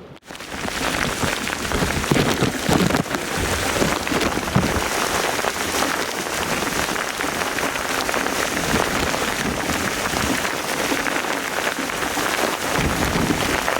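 Heavy rain pouring steadily, a dense even hiss of drops that comes in just after a brief drop-out at the start.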